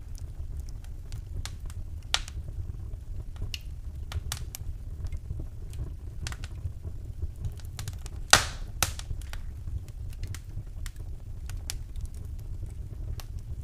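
Wood fire burning in a fireplace: irregular crackles and snaps over a steady low rumble, with one loud pop a little past the middle.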